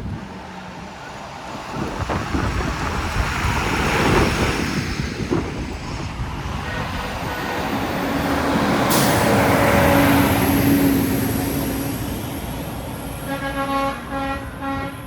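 Big trucks passing close by one after another, their engine and road noise swelling and fading twice. A truck horn sounds a steady pitched note through the second half.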